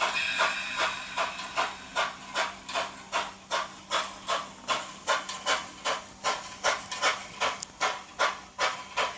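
Model steam locomotive's sound system chuffing steadily, about three chuffs a second, as the train runs, over a steady low hum.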